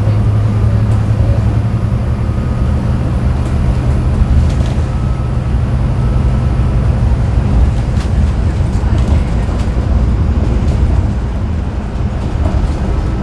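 Scania N250UD double-decker bus in motion, heard from the top deck: a steady low engine drone with road noise, whose strongest low note eases off about halfway through, and a few light knocks and rattles.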